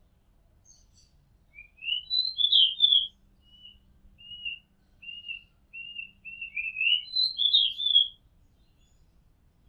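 Oriental magpie-robin singing one phrase of clear whistled notes: a varied rising flourish, a run of short repeated notes, then another varied flourish near the end.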